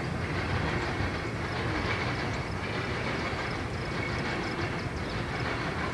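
Freight train of open hopper cars rolling past, a steady low rumble of steel wheels on rail.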